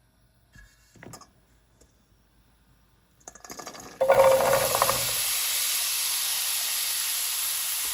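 A few faint knocks, then about four seconds in, food goes into a hot oiled pan with a loud burst of sizzling that settles into a steady frying hiss.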